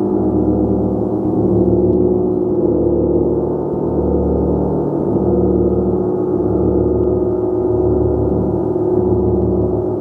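A gong played continuously in a sustained wash, many overlapping tones below the treble swelling and pulsing slowly, with no single strike standing out.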